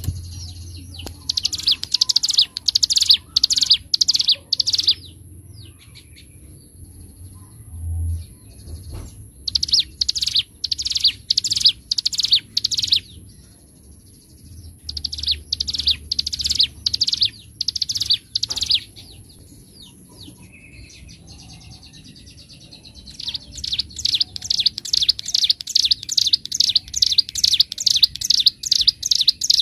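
Ciblek gunung (a prinia) singing loudly in phrases of rapid, repeated sharp high notes, each phrase a few seconds long with short pauses between; the last phrase, near the end, is the longest and fastest. A faint steady high-pitched tone runs beneath until about two-thirds of the way through.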